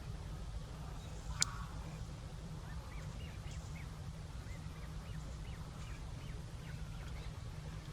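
Birds giving short, repeated chirping calls over a steady low rumble, with one sharp click about a second and a half in.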